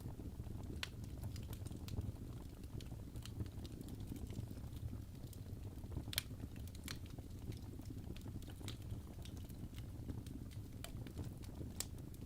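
Wood logs burning in a fireplace: a steady low rumble of flames with irregular sharp crackles and pops, one louder pop about halfway through.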